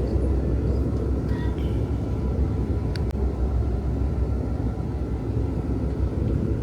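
Steady low rumble of a moving vehicle, with a faint click about three seconds in.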